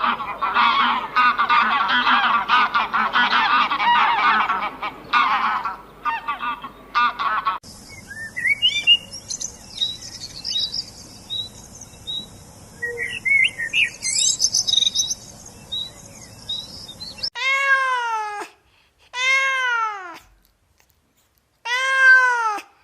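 A string of animal calls: for the first few seconds many pitched calls overlap, like a noisy flock; then small birds chirp for about ten seconds; near the end a cat meows three times, each meow long and rising then falling.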